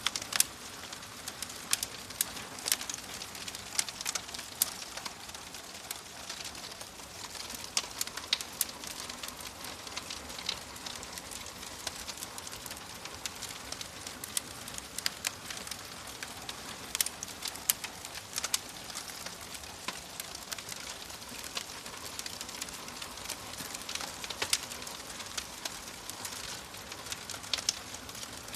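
Wood fire burning in a fireplace, crackling steadily: a soft hiss with frequent sharp, irregular pops and snaps, some louder than the rest.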